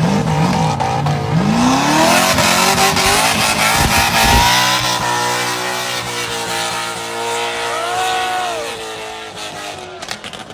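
A car's engine revving hard while its tires squeal in a slide, the engine pitch rising and falling repeatedly before settling into a steadier high note.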